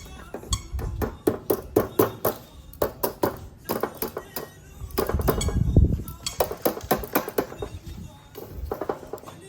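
A fast, irregular run of sharp knocks and clinks over background music, with a low rumble swelling about five to six seconds in.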